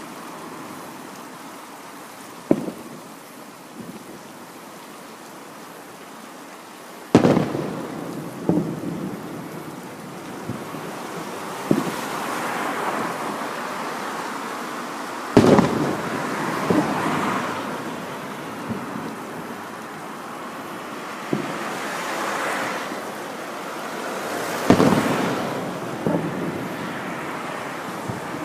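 Fireworks display: aerial shells bursting with sharp booms at irregular intervals, three much louder than the rest, each trailing off in an echoing rumble and crackle.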